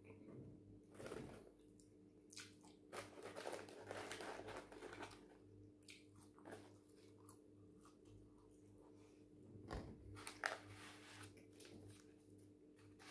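A person biting and chewing crispy fried food (chips and chicken wings) close to the microphone: faint, irregular crunches and chewing. It is busiest about three to five seconds in, with the sharpest crunch about ten and a half seconds in.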